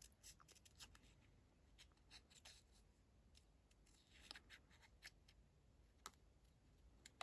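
Near silence broken by faint, scattered snips of small scissors fussy cutting paper.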